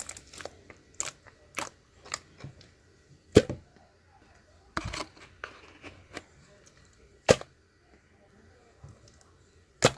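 Slime being pressed and worked by hand, giving sharp clicking pops every second or so, the loudest about three and a half seconds in, again about seven seconds in, and right at the end.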